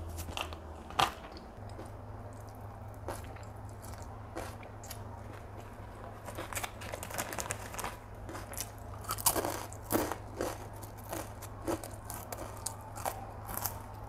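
A person chewing mouthfuls of stir-fried flat rice noodles close to a clip-on microphone, with scattered short wet mouth clicks that come thicker in the second half.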